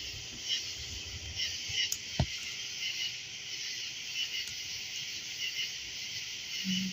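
Crickets chirping in a steady night chorus beside a campfire, with a few faint pops and a sharp snap about two seconds in.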